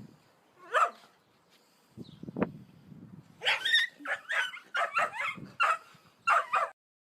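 Dog yipping and barking: one short call about a second in, then a rapid run of about eight short, high calls that cuts off suddenly near the end.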